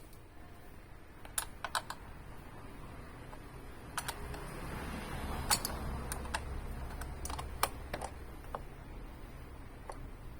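Scattered light clicks and taps of tools and small parts being handled, with a soft rushing noise that swells in the middle.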